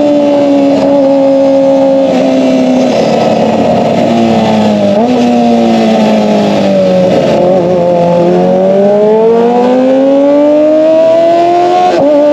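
Kawasaki ZX-25R's 250 cc inline-four running at high revs through an SC-Project exhaust, a loud high-pitched note. The pitch steps a couple of times, sags about two-thirds of the way through, then climbs back near the end.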